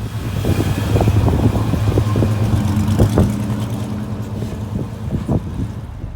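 A car engine running with a low steady note, with uneven crackles over it.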